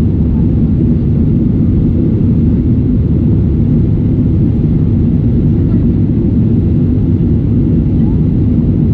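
Cabin noise inside a Boeing 737-700: its CFM56 jet engines and the airflow make a loud, steady low rumble.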